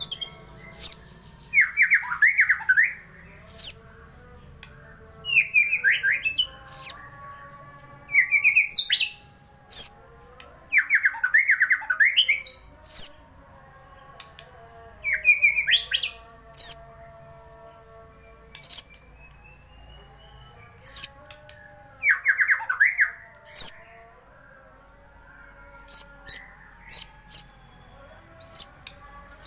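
A murai (white-rumped shama) singing loud phrases every few seconds. Each phrase is made of fast whistled sweeps and sharp, high notes, with short pauses between the phrases.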